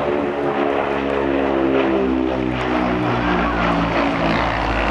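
Propeller-driven airplane's piston engine droning loudly as it flies past, its pitch dropping partway through as it goes by.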